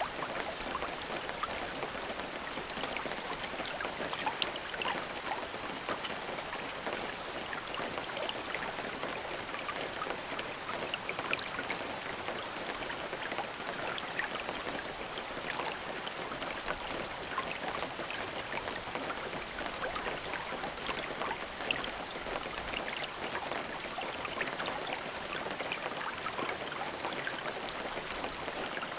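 Steady rain with many individual drops pattering on a surface, an even hiss without thunder.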